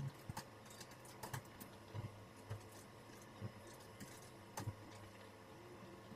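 Newborn kittens suckling at the mother cat: faint, irregular small clicks and smacks with a few soft low thumps.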